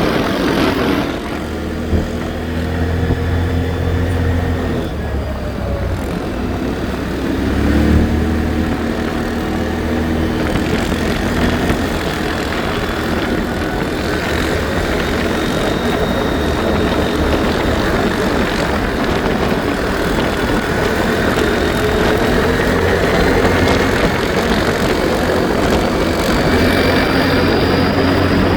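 ATV engine running under way, its pitch rising and falling slowly with the throttle, over a steady rush of noise.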